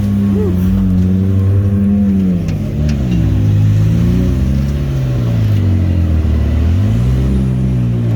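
Can-Am Maverick X3's three-cylinder turbo engine running under changing throttle, its pitch rising and falling several times, with a few faint knocks.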